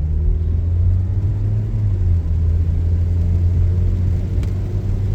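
Steady low drone of a car's engine and tyres, heard from inside the cabin while driving at road speed.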